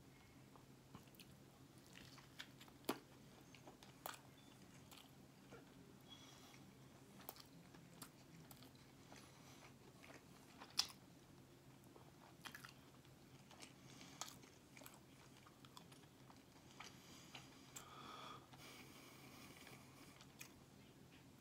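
Faint chewing and biting of a fish sandwich, with scattered soft mouth clicks; the loudest click comes about eleven seconds in.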